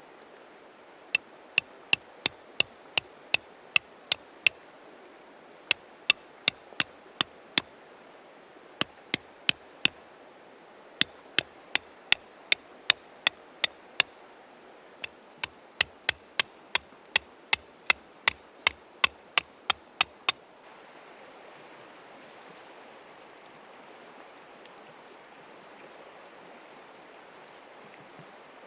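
Rapid, sharp hammer strikes at about two to three blows a second, in five runs of roughly six to fifteen blows with short pauses, stopping about two-thirds of the way through. A river runs steadily underneath throughout.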